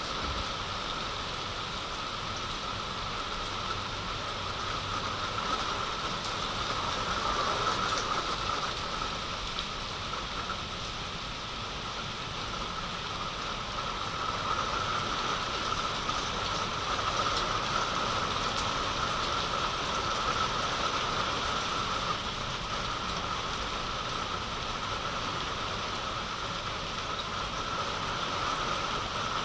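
Heavy rain falling steadily: a dense, even hiss that swells and eases slightly.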